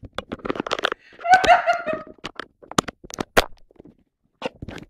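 A person laughs briefly about a second in, among a scatter of sharp taps and knocks.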